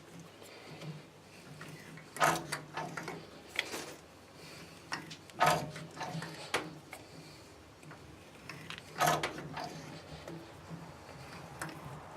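Tap cutting a 7/16 in Whitworth thread in tough steel: sharp metallic clicks and creaks every second or few as the tap is turned and the chips break, over a low steady hum.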